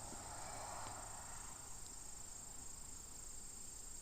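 Honeybees humming around an open hive, with a steady high-pitched trill running behind.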